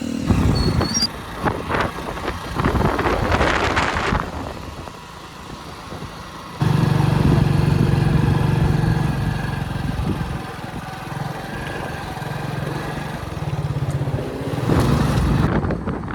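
Heavy diesel machinery engines running: noisy clatter for the first few seconds, then from about six and a half seconds in a steady engine drone.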